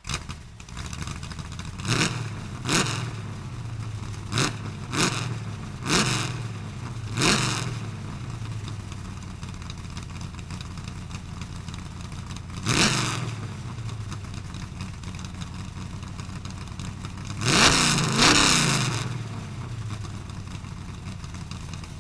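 Vehicle engine idling with sharp throttle blips, each rev rising quickly and falling back to idle: several in the first seven seconds, one near the middle, and a loud double rev about three-quarters through.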